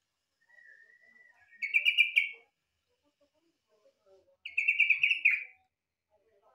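Yellow-vented bulbul (trucukan) singing. A faint thin whistle leads into two quick rippling phrases of rapid notes, about three seconds apart. The song is said to resemble a greater green leafbird's.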